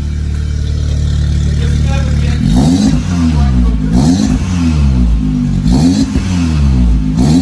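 Turbocharged Audi S3 engine with its turbo muffler removed, idling steadily, then revved in quick throttle blips about four times from about two and a half seconds in. No distinct turbo whistle stands out over the engine.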